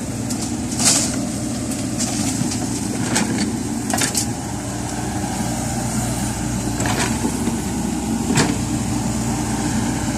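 A diesel engine running steadily, with five or six short sharp knocks or clanks over it.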